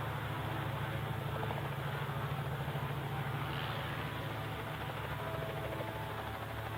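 Light aircraft's piston engine and propeller running, a steady low drone that eases slightly about halfway through.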